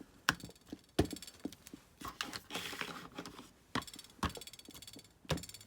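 Rubber stamps knocked and pressed down onto paper on a table: about five sharp knocks, some with a short rattle after them, which the crafter puts down to her scissors rattling with each stamp. A brief rustle in the middle.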